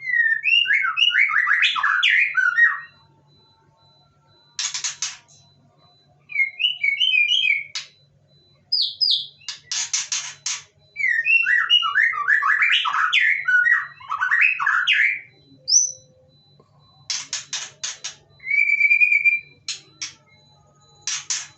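White-rumped shama singing loudly in bouts of fast, varied whistled phrases, broken by short bursts of rapid harsh clicking notes and, near the end, a long held whistle. It is calling hard in challenge to other birds it can hear.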